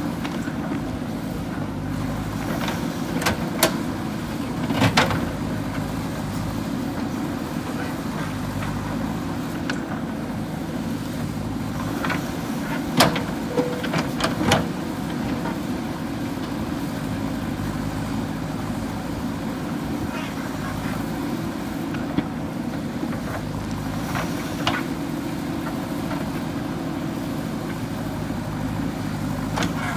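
JCB 3DX backhoe loader's diesel engine running steadily at work, with a few sharp knocks scattered through, the loudest about a third of the way in.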